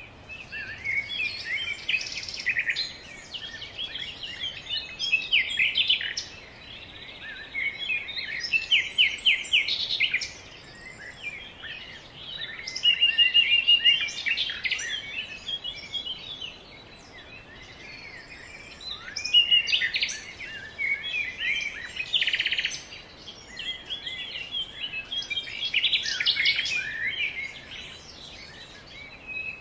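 Songbirds singing: phrases of quick chirps and fast trills, with short lulls between them, over a faint background hiss.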